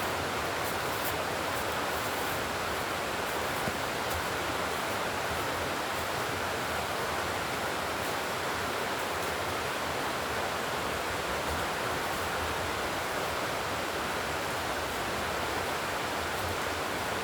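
Steady rushing noise with an even level and no distinct events.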